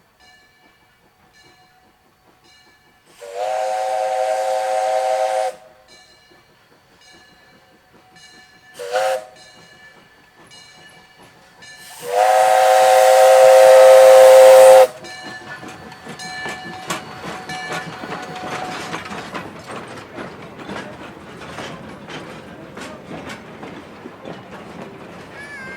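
Steam whistle of saddletank locomotive No. 126, a 1931 Vulcan 0-6-0T, sounding a long blast, a short one and a second long, louder blast, each swooping up in pitch as it opens. A bell rings steadily between the blasts. After the last blast comes a noisy spell of rapid clicks and clatter as the train runs.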